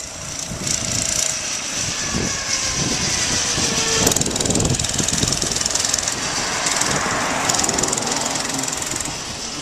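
Baja minibike's 97cc four-stroke engine, its governor removed, running and revving as the bike is ridden around, growing louder about a second in with peaks near the middle and again later.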